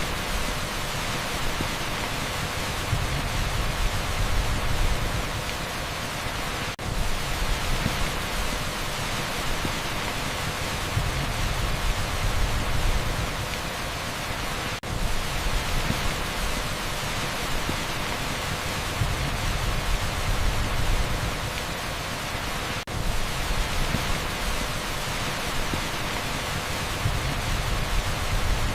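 Heavy rain pouring down on an asphalt street: a dense, steady hiss, broken by a split-second dip roughly every eight seconds.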